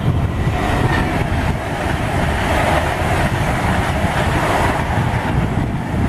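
Virgin Class 390 Pendolino electric train passing through at speed: a rushing noise of wheels on rail that swells about half a second in and eases off near the end.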